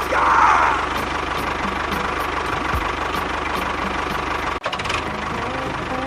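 A small motor running steadily with a fast, even knocking rhythm, broken by a sudden brief dropout about four and a half seconds in.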